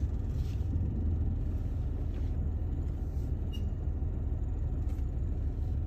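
Car engine and running noise heard from inside the cabin, a steady low rumble as the car is driven slowly.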